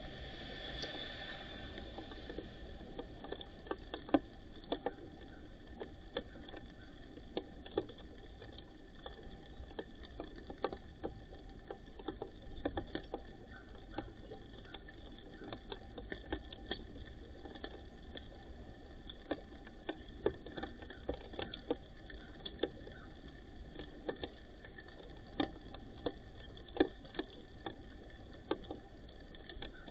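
White-crowned sparrows pecking: irregular light taps and clicks, a few at a time, with several sharper, louder ones scattered throughout.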